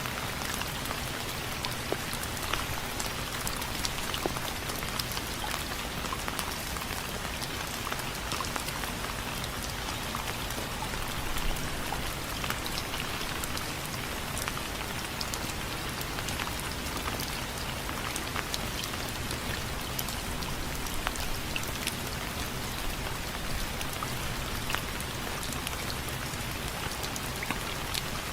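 Steady rain, with many distinct drops pattering and ticking on a window frame over a continuous hiss.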